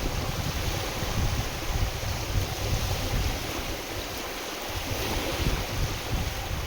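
Wind-driven waves splashing on a lake, with gusty wind rumbling on the microphone; the rumble eases briefly about four seconds in.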